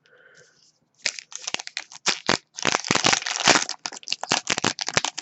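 Foil wrapper of a hockey card pack crinkling and tearing as it is worked open, a dense rapid crackle starting about a second in. The pack is stubborn to open.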